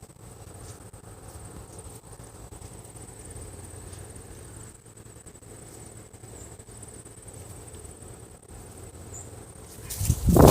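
An insect, likely a cricket, trills steadily on one high note over a low rumble of wind or background noise. Near the end, loud rustling thumps break in.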